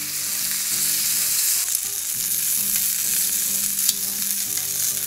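Bacon, sausages and diced hash browns sizzling steadily on a hot plancha griddle, with a couple of sharp clicks about two and four seconds in.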